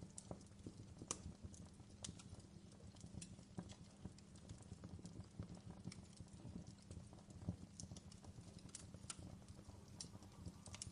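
Campfire crackling: irregular faint pops and snaps over a low steady hum.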